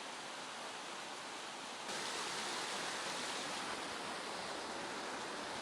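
Rushing water of a mountain stream, a steady hiss that gets a little louder about two seconds in.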